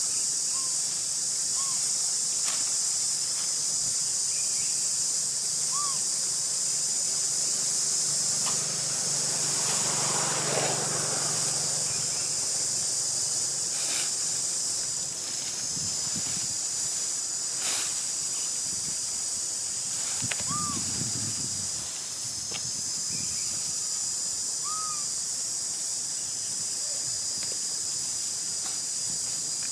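Steady high-pitched insect chorus droning, with a few short chirping calls and scattered clicks.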